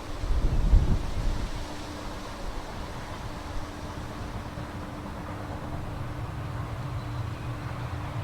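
Wind buffeting the microphone, loudest in a gust about a second in, over a steady low hum.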